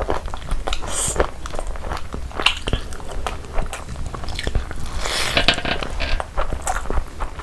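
Close-miked mouth sounds of a person chewing mouthfuls of spiced vegetable rice eaten by hand: irregular wet smacks and clicks.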